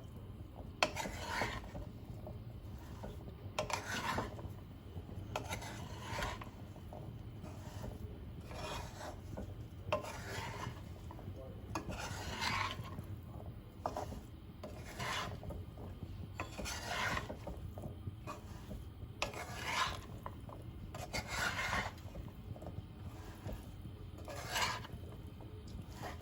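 A spatula scraping against a pan as boiled chickpeas are stirred into the spice masala, in short rasping strokes about every one to two seconds, over a steady low hum.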